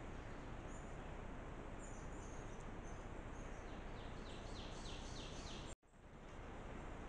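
Faint steady outdoor background hiss, with a bird singing a run of about seven quick falling notes for about two seconds in the second half. The sound then cuts out abruptly and fades back in near the end.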